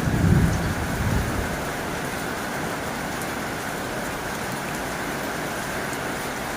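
Heavy rain drumming steadily on a tin roof. A low rumble of thunder dies away during the first second and a half.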